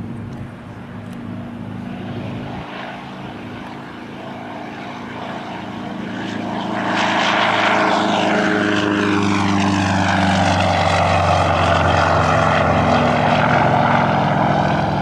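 Sukhoi Su-31 aerobatic plane's radial engine and propeller running at power. It gets much louder about seven seconds in and stays loud, with a sweeping, shifting tone as the plane passes close.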